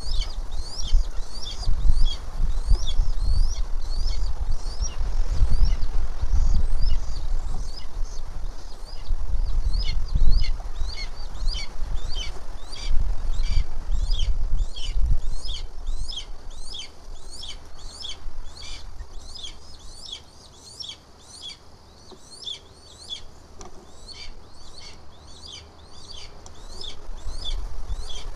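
A bird chirping in a fast, steady series of short, rising high notes, about three a second, over a low rumble that fades after the first half.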